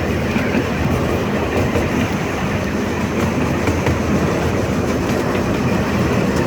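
Passenger train rolling along the track, heard from aboard: a steady rumble and clatter of wheels on the rails.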